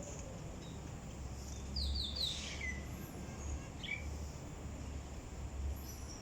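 Blue-crowned hanging parrot calls: a quick run of high falling notes about two seconds in and a short call near four seconds, over a steady low rumble.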